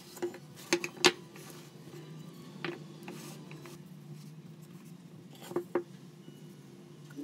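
Sharp clicks and knocks of small hard parts being handled and set down, a cluster of them in the first second, one more a little later, and two close together near the end, over a steady low hum.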